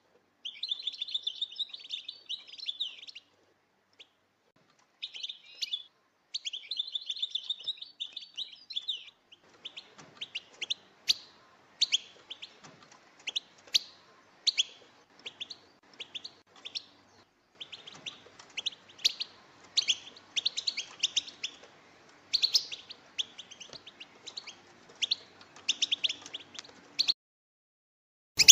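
European goldfinches, a group of females, twittering and calling. The first part is fast, rattling chatter. From about a third of the way in it turns to sharper separate chirps over a faint hum, with short silent breaks between passages.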